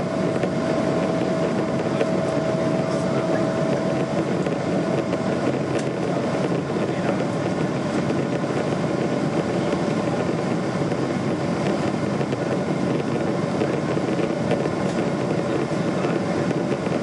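Boeing 777-200 jet engines at takeoff power, a steady roar with no let-up, and a thin whine that fades out about five seconds in.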